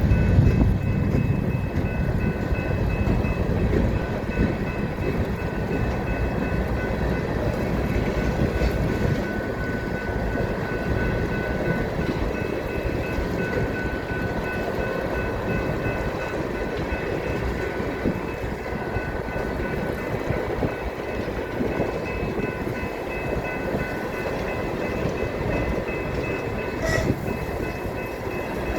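Freight train cars rolling past, a steady rumble with a thin, high-pitched squeal held over it.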